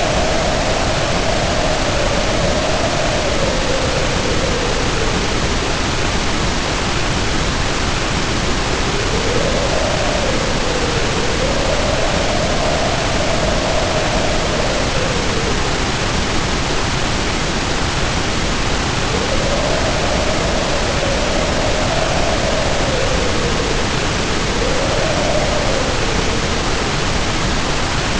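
Heavy rain pouring down steadily, with wind howling over it in a wavering pitch that rises and falls; the howl comes and goes several times.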